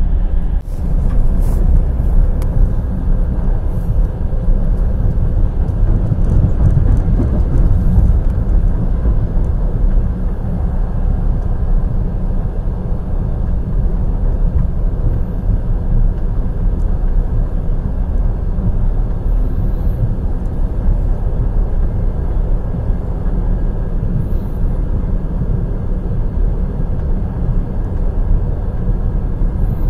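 Passenger train's wheels running on the rails: a steady, heavy rumble.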